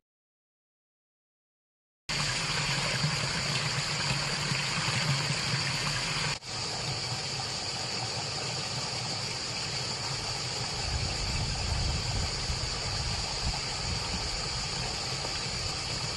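Water pouring steadily from the metal spouts of a public wall fountain and splashing into the stone trough below. Silent for the first two seconds, with a brief dip about six seconds in.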